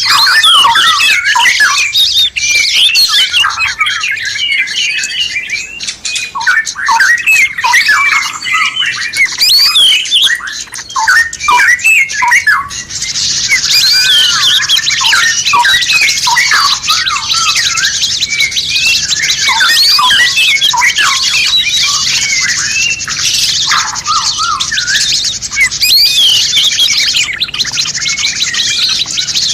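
Mixed songbird calls: many small birds chirping, whistling and squeaking over one another in a dense chorus that becomes a thicker, continuous high chorus about halfway through.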